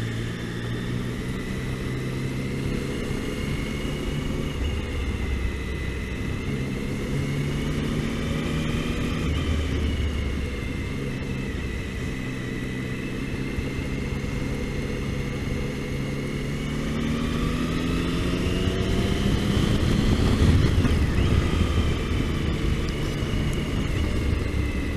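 Triumph Tiger motorcycle engine running on the move, its note holding fairly steady and then rising as it accelerates about two-thirds of the way through before easing off again.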